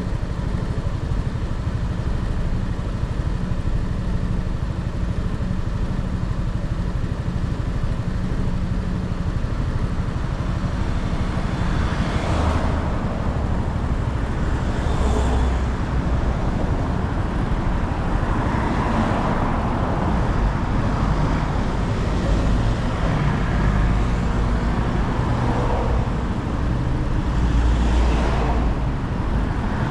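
Motorcycle riding in city traffic: a steady low engine and wind rumble, with several swells of passing road noise in the second half.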